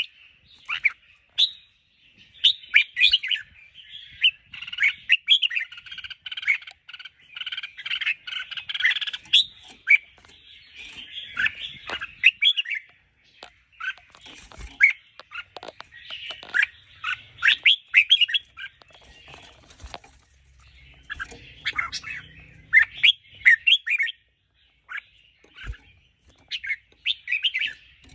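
Red-whiskered bulbul song: quick, chattering whistled notes in busy phrases separated by short pauses.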